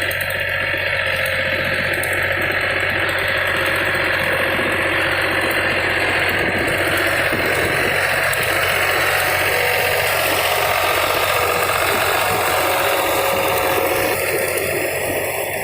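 Tractor engine running steadily under load, pulling a rotavator tilling the field, with a low engine drone under a dense mechanical noise. It eases a little near the end.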